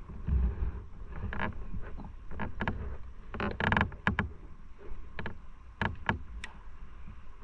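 Riding noise from a motorcycle: a steady low rumble, broken by a run of sharp knocks and rattles. The loudest cluster comes about three and a half seconds in.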